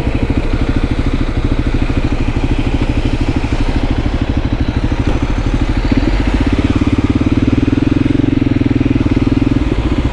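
Voge 300 Rally's single-cylinder engine running steadily, its note growing louder about six seconds in and easing back near the end.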